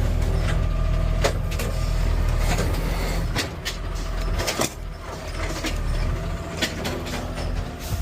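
Garbage truck engine running with a low rumble while the truck's lifting arm handles a trash can, making a series of sharp clanks and knocks. The rumble drops off about three and a half seconds in.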